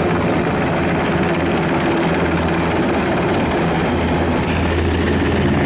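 Helicopter flying, with a steady, loud drone of rotor and engine noise.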